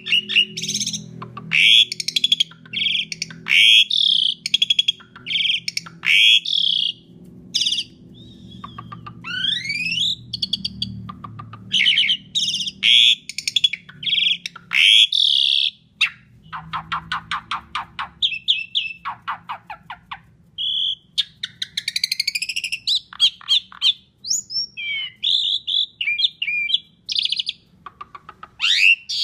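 Asian pied starling singing a loud, varied song: clear whistles, rising and falling glides, harsh buzzy notes and fast runs of repeated notes, phrase after phrase with short pauses between.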